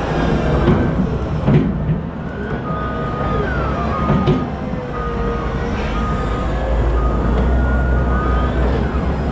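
Heavy diesel machinery running steadily while a reverse alarm beeps about once a second, starting about two and a half seconds in. A few sharp knocks sound, the loudest about one and a half seconds in.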